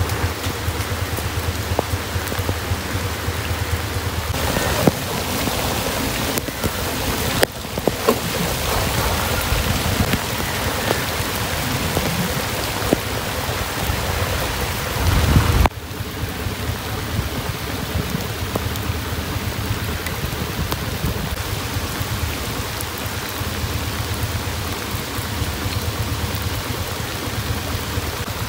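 Heavy rain falling, a steady hiss throughout. A low rumble under it in the first half cuts off abruptly about halfway through, and there are a few sharp taps early in the first half.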